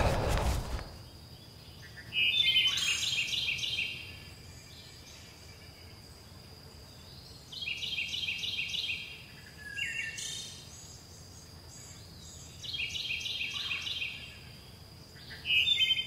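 A bird singing short phrases of quick repeated chirps, one phrase about every five seconds, over a faint steady high-pitched whine.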